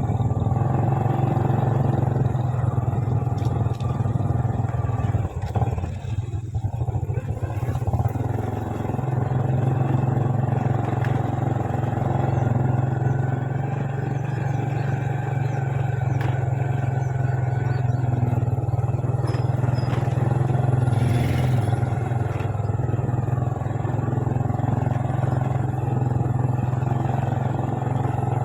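Motorbike engine running steadily while riding along, with a brief drop in engine note and level about six seconds in before it picks up again.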